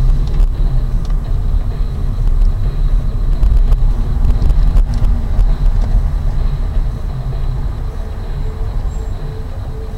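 Low road and engine rumble inside a moving car, loud and steady, easing off over the last few seconds.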